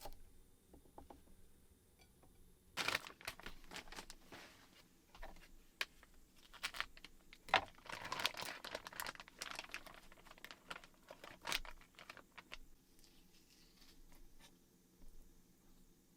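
Close-up crinkling and rustling with small irregular clicks and knocks, like something being handled and unwrapped, busiest in the middle and dying away near the end.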